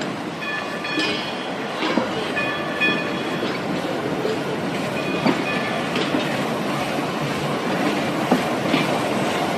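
Steam train running along the track, its wheels clacking over the rail joints. In the first few seconds a high ringing tone repeats in short bursts.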